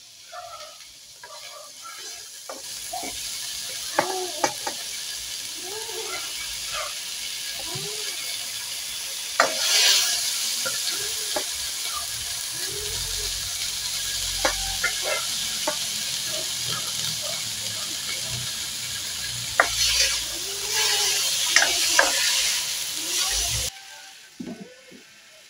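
Chicken pieces with onion and tomato sizzling and frying in a wok, stirred with a spoon that now and then clicks and scrapes against the pan. The sizzle cuts off suddenly near the end as a glass lid goes on.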